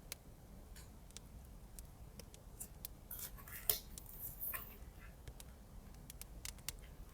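Close-up paper-craft handling sounds: scattered small clicks and taps, with a short run of paper rustling and snipping about three to four and a half seconds in, including one sharp click.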